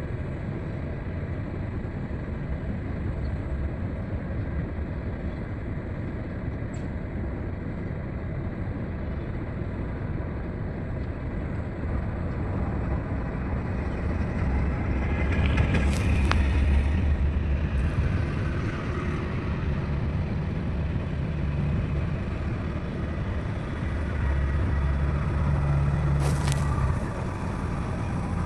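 Heavy diesel earthmoving machinery running steadily, the engine load rising twice for a few seconds, with two brief sharp sounds about halfway and near the end.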